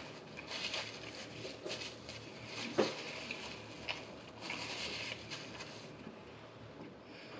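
Close-miked chewing and wet mouth sounds of someone eating, with soft napkin rustling as the hands are wiped, and a short low hum about three seconds in.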